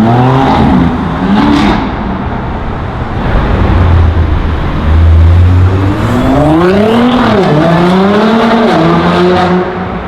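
High-performance car engines accelerating hard: the engine note climbs and drops back at quick gear changes in the first two seconds. A second run-up starts about six seconds in, rising through the revs with further shifts.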